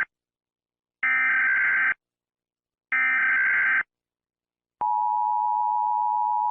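Emergency Alert System header tones: bursts of SAME digital data tones, each about a second long with a second's silence between, then the steady two-tone EAS attention signal starting about five seconds in.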